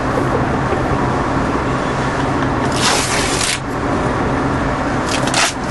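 Steady engine drone with a constant rushing noise over it; a louder burst of hiss about three seconds in and two shorter ones near the end.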